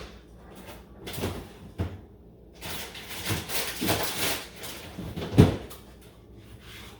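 Kitchen handling sounds: a couple of light knocks, a stretch of rustling in the middle, then a sharp clunk about five and a half seconds in, the loudest sound.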